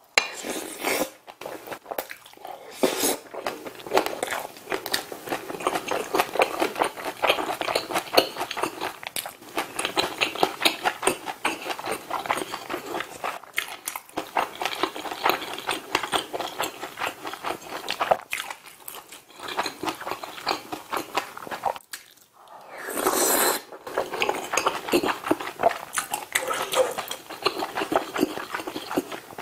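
Close-miked chewing of a mouthful of rice and spicy bean-sprout bulgogi: wet, crackly mouth sounds with a fast run of small crunches. There is a brief pause a little past 20 seconds in, then a short hiss before the chewing resumes.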